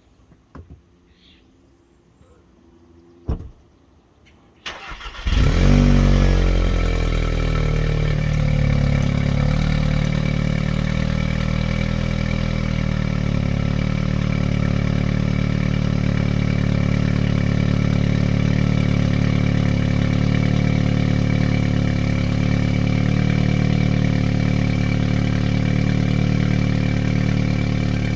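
A few faint clicks and one sharp click, then about five seconds in a 2015 Audi S3's turbocharged 2.0-litre four-cylinder cranks briefly and fires on a cold start, flaring up in revs and settling into a steady idle. The exhaust runs a catted downpipe and turbo muffler delete with the stock resonator and muffler.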